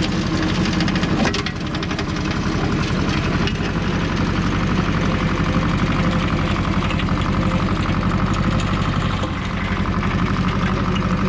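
Goldoni 933 RS DT tractor's diesel engine running steadily under load, driving a 13 mm chain weeder that is shredding rockrose scrub, with a dense, fast rattling rhythm.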